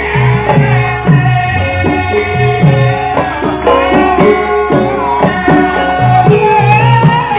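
Javanese gamelan music for Lengger mask dance: a hand drum beating a steady pattern about twice a second under ringing, sustained metallophone tones, with a wavering melody line rising over it in the last few seconds.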